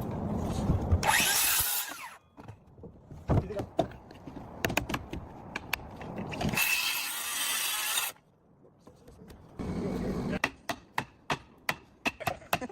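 Power tool cutting wooden roof decking boards in two short bursts. Near the end comes a run of sharp knocks on wood, about two to three a second.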